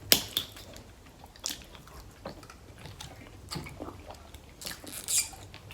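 Close-up eating sounds of a seafood meal: bites and chewing, with scattered sharp clicks and crackles, a small cluster of them near the end.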